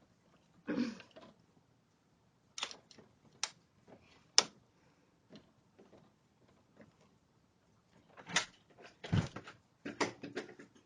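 Scattered sharp clicks and knocks of a door being handled from outside, its handle and lock tried, with a denser run of knocks and a brief muffled voice near the end.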